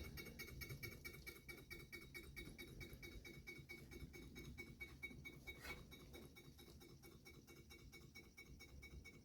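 Small 1915 Heinrici hot air engine running, a faint, steady, rapid mechanical ticking from its moving parts, with one sharper click a little past halfway.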